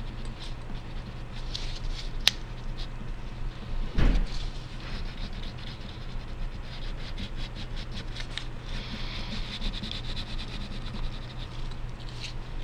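Wax crayon rubbing on paper in quick back-and-forth colouring strokes, with a sharp click about two seconds in and a dull thump about four seconds in.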